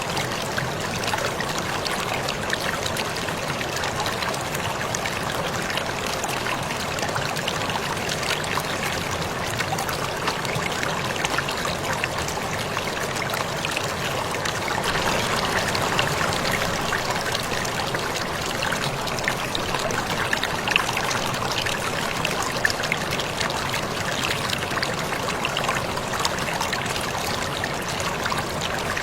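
Waterfall splashing and trickling in a steady unbroken rush, with fine droplet splatter on top.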